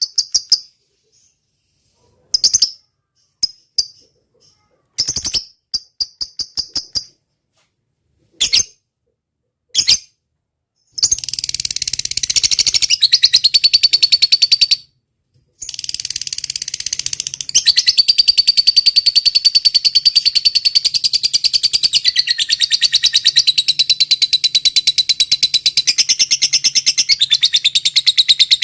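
Lovebird calling: a few short, high chirps spaced a second or two apart, then from about a third of the way in a long, fast rattling trill (the 'ngekek' song) that breaks off once for a moment and carries on.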